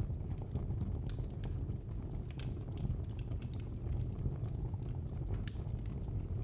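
Wood fire burning in a fireplace: a steady low rumble of flames with irregular crackles and pops from the burning logs.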